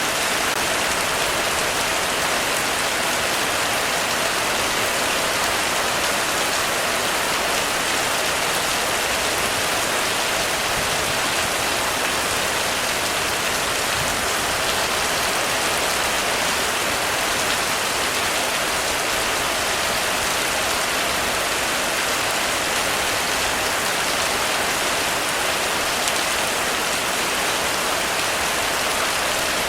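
Heavy rain falling steadily on a roof, an even hiss of countless drops that does not rise or fall.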